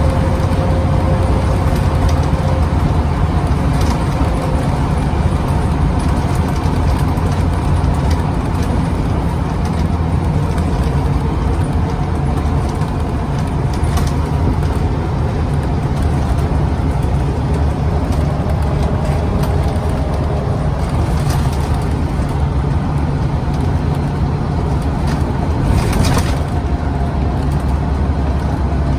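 Scania CN94UB OmniCity single-deck bus heard from on board while driving: the diesel engine runs steadily under load over road noise, with occasional rattles and knocks from the bodywork, sharpest about 14 and 26 seconds in.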